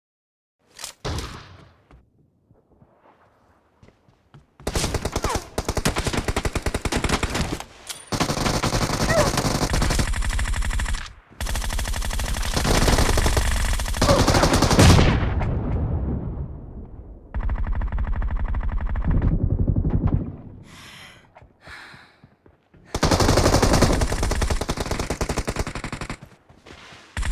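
Long bursts of rapid automatic gunfire, each lasting several seconds, with short pauses between them.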